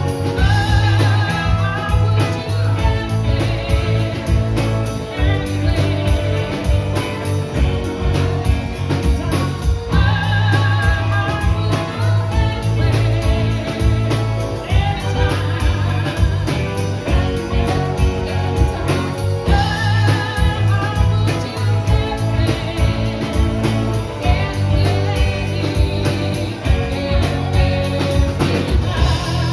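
A band playing a soul-tinged rock song, with singing over electric guitar and a strong bass line.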